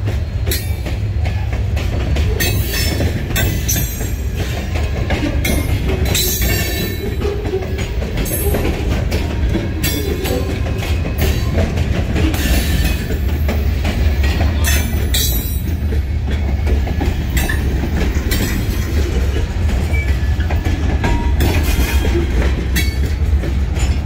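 Freight train of covered hopper cars rolling past at close range: a steady heavy low rumble, with sharp clacks from the wheels every second or so.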